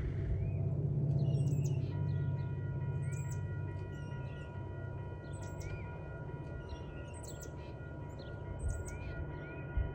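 Low steady rumble with small birds chirping. From about two seconds in, a steady high tone made of several pitches comes in and holds.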